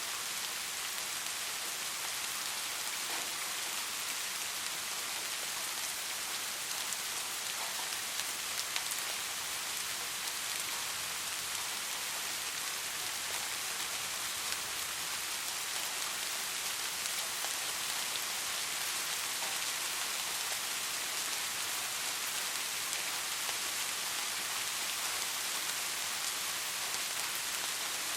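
Soft rain falling steadily, an even high hiss of many small drops, with a few sharper drop taps about eight seconds in.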